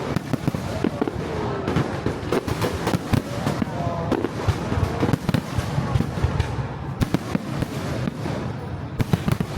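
Fireworks display going off in rapid succession: many sharp bangs and crackles overlapping, with a quick cluster of bangs near the end.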